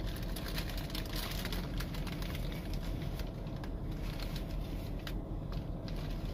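Close-up chewing of a fried burrito, with many small clicks and crackles from the mouth and the paper wrapper, over a steady low rumble.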